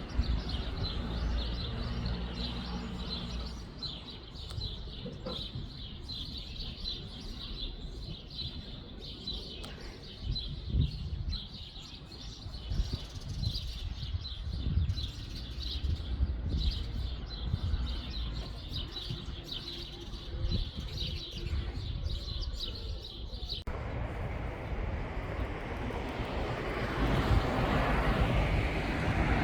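Small songbirds chirping and tweeting over and over in high, short notes, over a steady low rumble. About three-quarters of the way through the chirps give way to a rising, even rushing noise, like a vehicle or aircraft passing.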